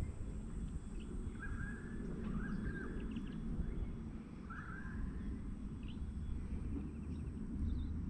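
A bird calling three times in short arched chirps over a steady low rumble of outdoor noise.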